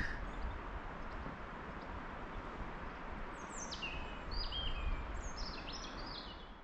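Birds calling over a steady outdoor background hiss: short whistled notes stepping down in pitch, several in a row from about halfway through.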